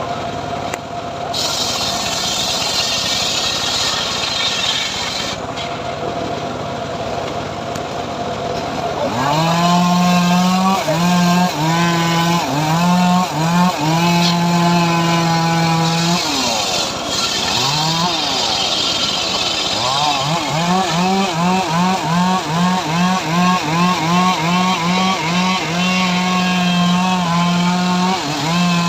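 Small engine of a homemade saw rig cutting sengon wood. A steady whir of cutting gives way, about nine seconds in, to the engine note rising and falling in repeated surges under load, the surges quick and regular near the end.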